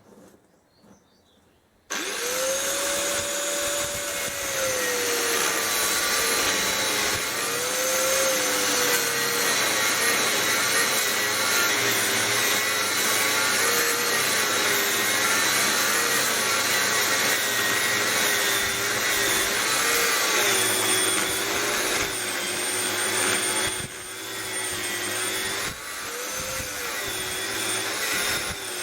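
An electric power tool starts about two seconds in and runs continuously, its whine wavering and dipping in pitch now and then as it is pressed into the work.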